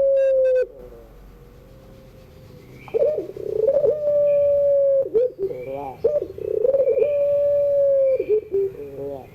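Puter pelung (domestic Barbary dove) cooing its long call. Each phrase opens with a short wavering burble and then holds one long steady coo. A phrase ends just under a second in, new ones start about three and six seconds in, and a fourth begins at the very end.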